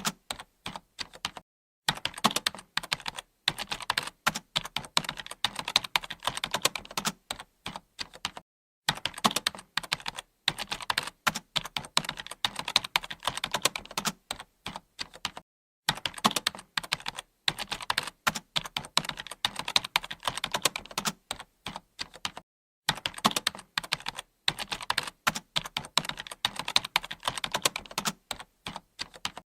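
Computer keyboard being typed on continuously: fast runs of key clicks, broken by short pauses every few seconds.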